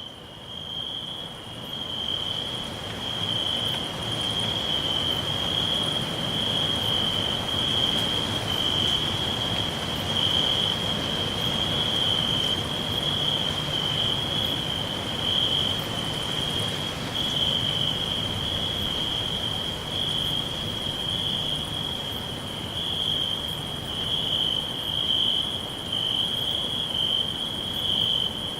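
Crickets chirping in a continuous, high, steady trill over a faint background hiss, fading in over the first couple of seconds.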